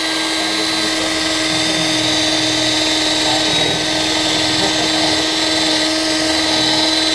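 Power drill running steadily under load, boring a hole in a mini bike's frame to mount the chain tensioner. A steady, unbroken whine.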